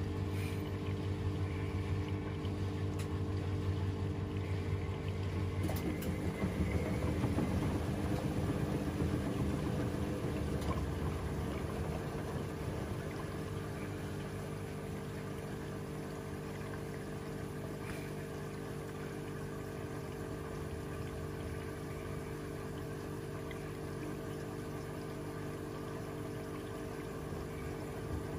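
Washing machine running a down (duvet) programme: a steady motor hum with fixed tones, with water sloshing and rushing in the drum from about six seconds in. After that the hum settles and runs a little quieter.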